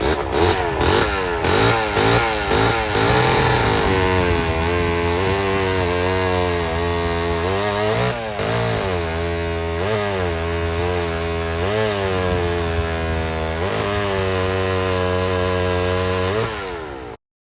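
Vintage two-stroke chainsaw engine running: revved in quick bursts for the first few seconds, then held at high speed with the pitch dipping and recovering every second or two. The sound cuts off suddenly near the end.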